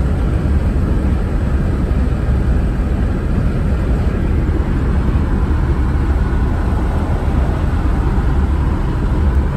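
Steady low rumble of an old vehicle's engine and road noise, heard from inside the cabin while driving.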